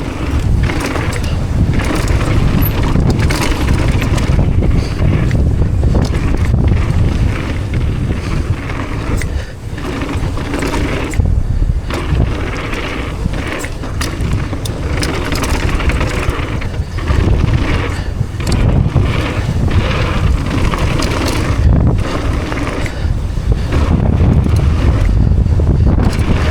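Mountain bike ridden fast down a dirt trail: tyres rolling over the ground, with frequent rattles and knocks from the bike over rough terrain. Heavy wind rumble on the microphone.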